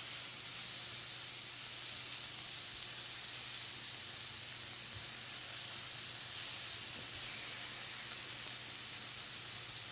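Meat sizzling on a grill: a steady frying hiss with a faint low hum under it.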